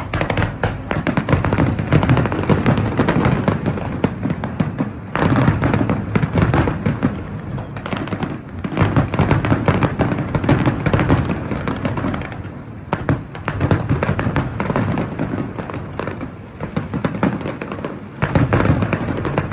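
Fireworks show going off in rapid volleys of booms and crackles, echoing off surrounding buildings, building in waves to a dense barrage near the end.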